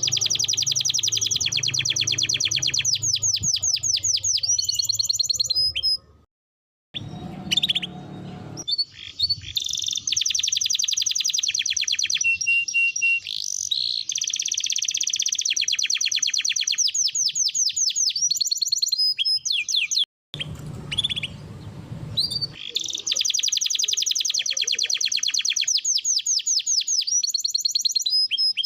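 Domestic canary singing long, very fast rolling trills that end in a few sweeping whistled notes, broken by two short pauses.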